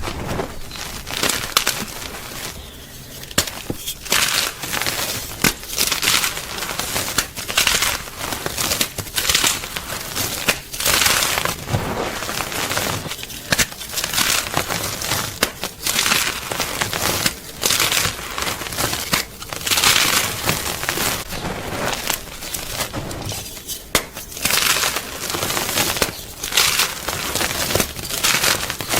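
Gym chalk (magnesium carbonate) being crushed and crumbled, making a long run of irregular crunches and crackles, some strokes longer and louder than others.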